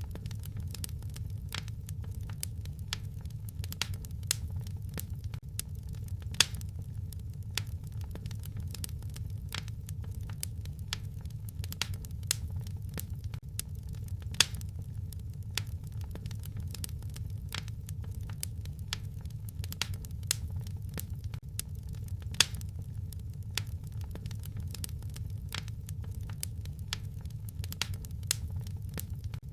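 Fireplace fire crackling: irregular sharp pops and snaps, a few of them louder, over a steady low rumble of the flames.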